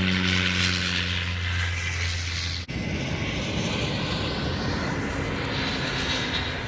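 Airliner engine noise from a passing airplane: a steady low drone with a hiss above it. About a third of the way in it breaks off abruptly and gives way to a rougher, deeper rumble.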